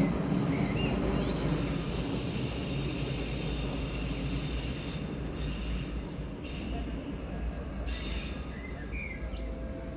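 Red S-Bahn electric train running away over the station approach tracks, its low rumble fading, with a high-pitched wheel squeal from the curves that starts about a second and a half in and wavers until near the end.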